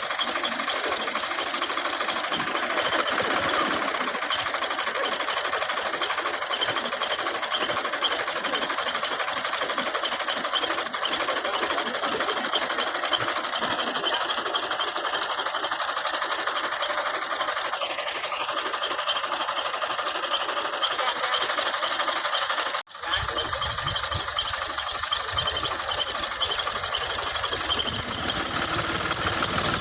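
Tractor engine running steadily with a fast mechanical clatter. After a brief break about 23 seconds in, a deeper rumble comes in as well.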